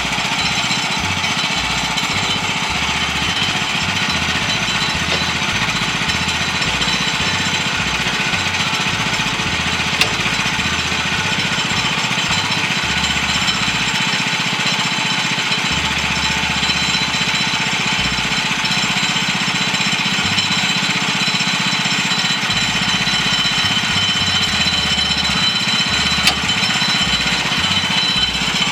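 A portable sawmill's engine running steadily and loud, with no change in pitch or pace.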